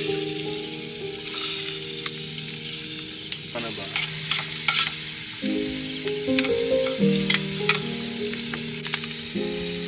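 Food sizzling as it fries in a pan, with a few sharp clicks, under background music of sustained notes.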